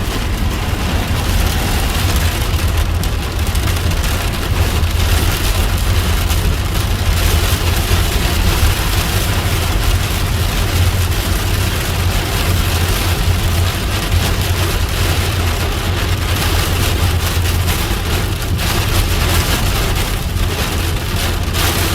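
Heavy thunderstorm rain falling steadily on a vehicle, over the continuous low rumble of the car.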